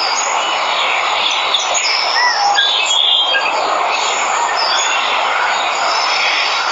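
Steady rushing of a waterfall, with jungle birds chirping over it in short, high calls, one of them an arching whistle about two seconds in.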